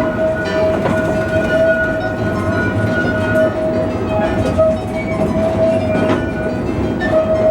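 Small riding train running along its track with a steady rumble and scattered clicks of the wheels. A steady high tone is held throughout.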